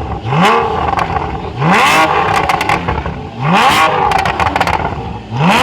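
Porsche 911 Carrera GTS flat-six with an IPE exhaust revved in four short blips, about every two seconds, each rise in pitch followed by a burst of crackles and pops as the revs fall.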